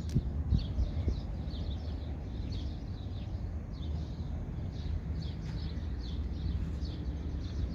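Small birds chirping over and over in quick short notes, over a steady low rumble.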